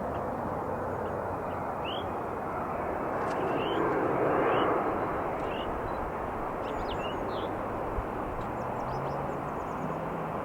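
Jet airliner engine noise, a steady rushing that swells briefly about four seconds in, with a few short, high, rising chirps over it.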